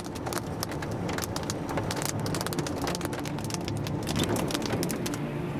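Rain striking a car in many sharp, rapid ticks over the vehicle's steady low hum; the ticks thin out near the end.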